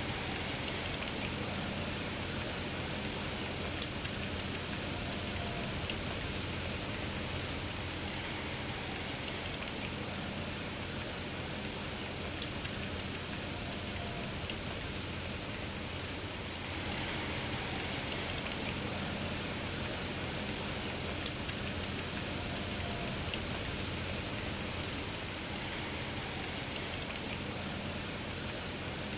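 Steady rain falling, an even hiss of drops. Three sharp ticks stand out, each about nine seconds apart.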